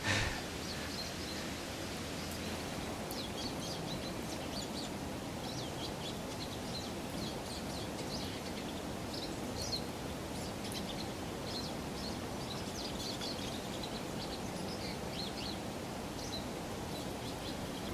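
Small flock of grosbeaks calling: many short, high chirps, overlapping and irregular throughout, over a steady background hiss.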